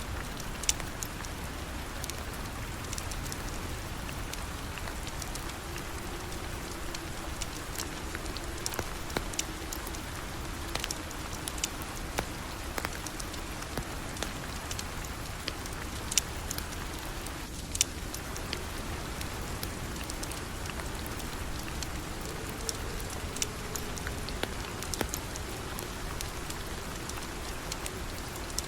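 Steady falling rain, with scattered sharp ticks and pops through it.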